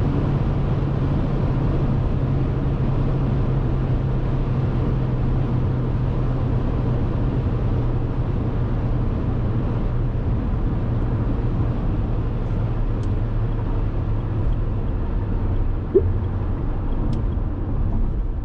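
Dacia Duster 1.6 SCe on the move: a steady drone of its naturally aspirated four-cylinder petrol engine over road noise, easing a little in the second half. A single sharp click about sixteen seconds in.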